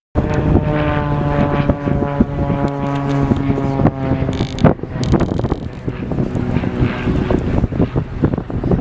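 An engine running steadily, with many short clicks and knocks over it; the engine tone is strongest for the first five seconds, then fades.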